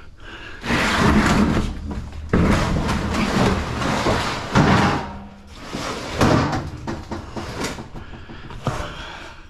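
A scrapped appliance being handled and pulled apart by hand: four or five loud, noisy stretches of clattering and scraping, each a second or two long, with short quieter gaps.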